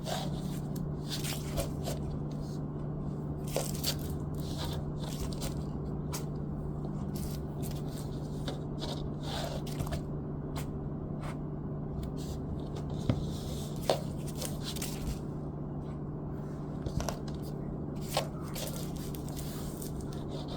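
Scattered light clicks and scrapes of items being handled, with two sharper knocks about two-thirds of the way in, over a steady low hum.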